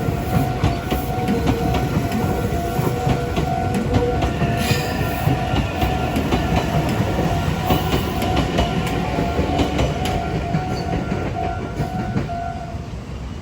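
A Meitetsu Inuyama Line train passing over a level crossing, its wheels clattering over the rail joints, while the crossing's warning bell rings in a steady, evenly broken tone. The bell stops shortly before the end as the train clears, and the train noise fades.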